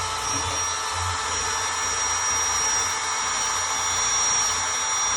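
Compact drill spinning a wire brush bit against a rusty lawnmower blade, scrubbing off rust and debris. It runs steadily with a constant whine.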